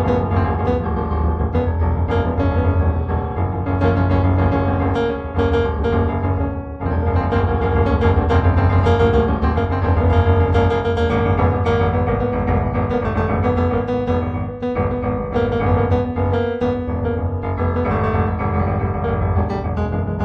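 Background piano music with many sustained notes over a steady low bass.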